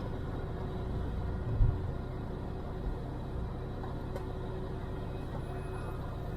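Cirrus light aircraft's piston engine running steadily at low power, with one thump about a second and a half in.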